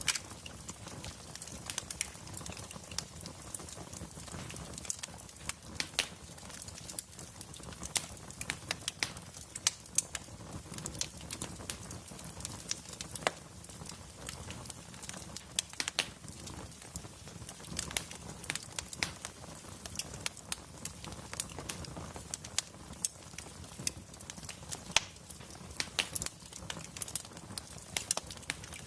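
Wood fire crackling, with many sharp irregular pops and snaps over a low steady hiss of burning logs.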